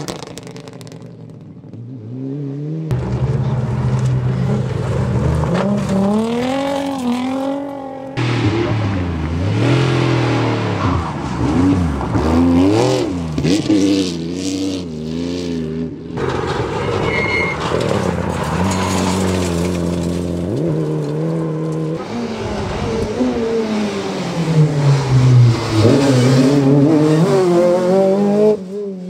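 Several rally cars race past in turn, each engine revving hard and dropping in pitch at gear changes, the sound cutting sharply from one car to the next. The cars include a Mitsubishi Lancer Evolution, a classic Porsche 911 sliding on loose gravel, and a Volkswagen Golf.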